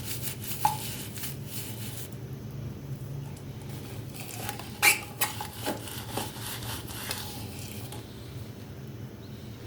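Hand-work sounds on a small object: rubbing or scraping for the first two seconds, a short squeak, then a handful of light clicks and knocks with brief squeaks around the middle, the sharpest knock just before halfway.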